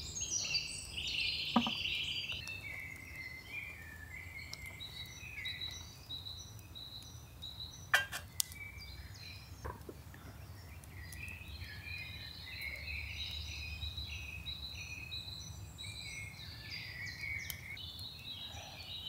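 Several birds singing, with short repeated chirps and phrases throughout. A few sharp clicks or knocks cut in, the loudest about eight seconds in.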